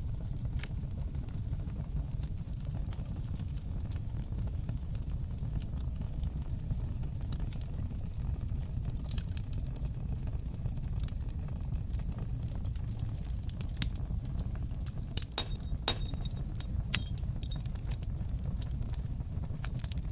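Fire burning in a fireplace: a steady low rumble of flames with scattered sharp crackles and pops. A flurry of louder pops comes about three-quarters of the way through, with one loud snap among them.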